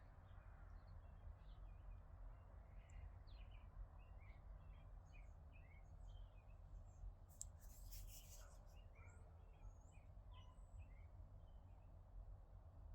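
Near silence: faint birds chirping in the background over a steady low hum, with a brief soft rustle about seven seconds in.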